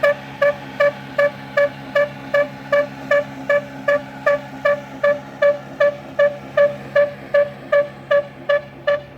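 Old stationary engine running an atta chakki (flour mill), beating out an even rhythm of sharp, ringing exhaust pops at about three a second over a steady low hum.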